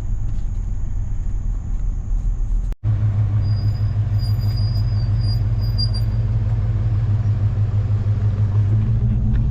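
Chevrolet Suburban driving slowly: a steady low engine and road rumble. The sound drops out for an instant about three seconds in.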